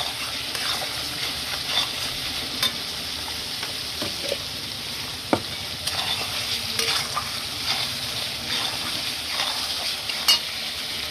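Spiced masala sizzling steadily in hot oil in a pan while a spatula stirs and scrapes it, with sharp knocks of the spatula against the pan now and then.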